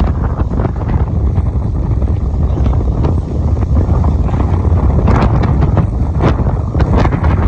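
Strong wind buffeting the microphone in a steady low rumble over a rough sea, with a few short, sharper rushes after about five seconds.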